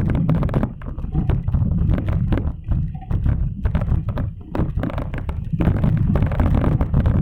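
Wind rumbling on the microphone of a camera carried on a moving bicycle, with rapid irregular clicks and knocks from the ride.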